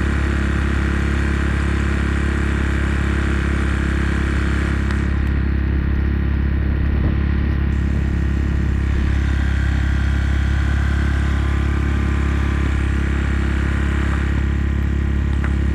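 Motorcycle engine running steadily at a constant speed, a continuous even hum with no revving.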